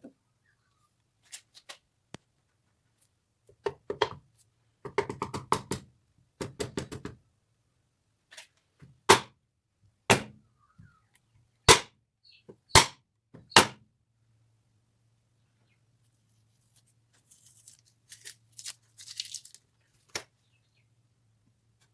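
Knocks and clatter of parts being worked by hand: short bursts of rapid tapping and rattling, then five loud single knocks about a second apart, and a brief scraping near the end.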